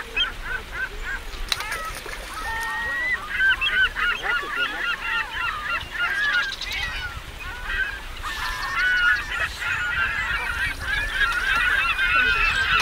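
A flock of geese honking, many short calls overlapping at once, growing busier in the second half.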